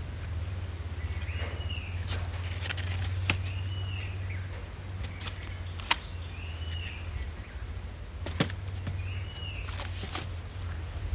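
A short call that rises and then falls, repeated about every two seconds, with scattered sharp clicks over a steady low rumble.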